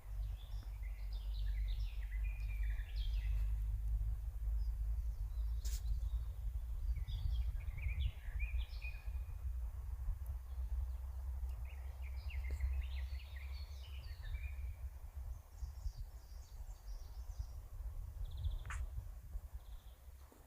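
Forest songbirds singing short phrases of chirps and trills about every four or five seconds, over a loud low rumble that rises and falls. Two sharp clicks stand out, one about six seconds in and one near the end.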